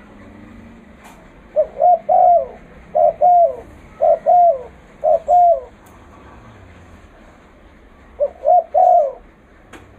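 Spotted dove (terkukur) decoy bird cooing loudly: five phrases of two or three swooping coos, a pause of about two seconds, then one more phrase near the end.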